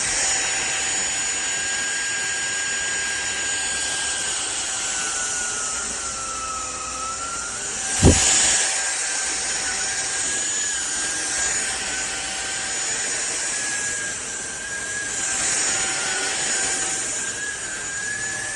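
SunSare 600 W cordless stick vacuum running with a steady high whine; its pitch sags for a moment about six seconds in, as if the head is briefly loaded, and a single knock comes about eight seconds in.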